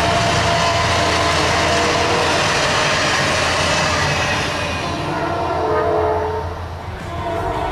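Canadian Pacific Holiday Train's lit railcars rolling past on the rails; the rumble fades from about four to five seconds in as the last cars go by.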